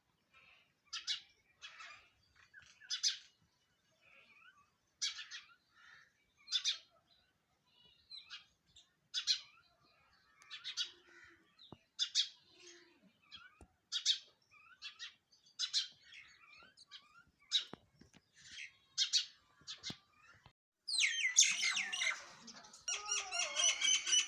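Sparrows chirping: short, high single chirps spaced about a second apart. Near the end many chirp at once in a dense, louder burst of chatter.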